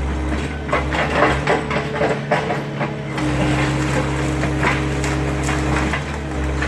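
Excavator's diesel engine running steadily while the wooden garage structure cracks and crunches apart under the machine. The engine note dips briefly a couple of seconds in, and the cracking comes in irregular bursts, thickest in the first few seconds.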